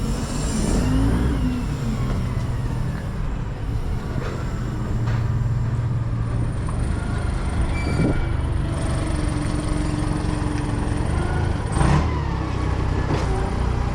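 Engines running steadily with a low rumble, with a couple of short knocks, one about two-thirds of the way through and one near the end.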